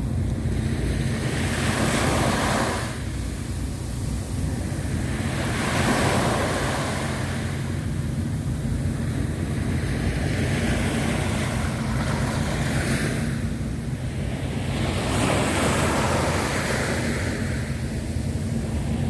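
Sea waves washing ashore, a hiss that swells and fades every three to four seconds, over a steady low rumble of wind on the microphone.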